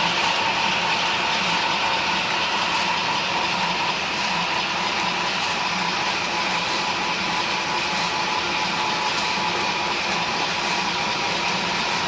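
Lego model marine engine running steadily, its mechanism's whir blended with added recorded real-machine sound: a continuous even machine noise with a steady high whine.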